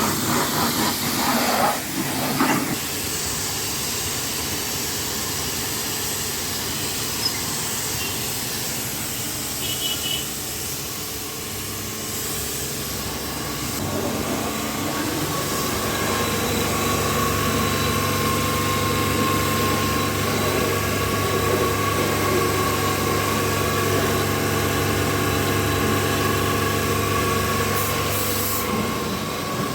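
Single-phase 3 HP pressure washer with a triplex plunger pump running, its high-pressure water jet hissing steadily. About fourteen seconds in, a steady motor hum with several even tones joins the spray and holds until near the end.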